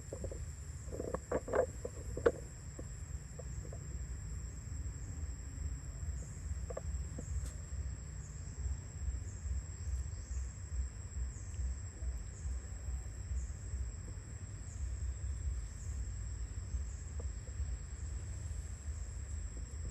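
Steady high-pitched drone of insects, over a constant low rumble, with a few short sharp sounds about one to two seconds in.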